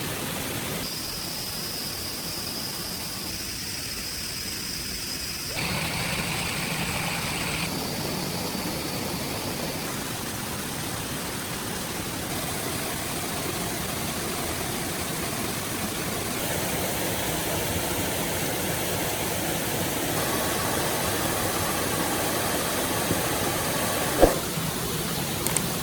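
Running water of a forest stream, a steady rushing hiss whose character changes abruptly every few seconds. A single sharp knock sounds near the end.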